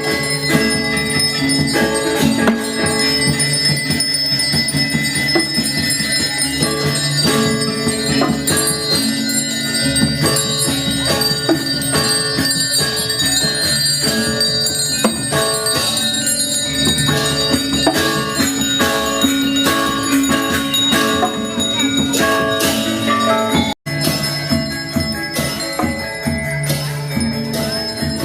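Balinese gamelan music: many metal gongs and keyed metallophones ringing together in a dense, steady stream of struck notes. It breaks off for an instant about three-quarters of the way through.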